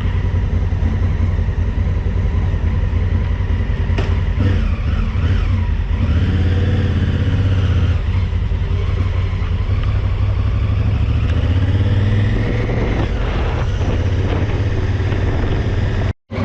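Motorcycle engine running steadily under way as the bike pulls out onto the road, its pitch rising and falling a few times. The sound cuts out abruptly just before the end.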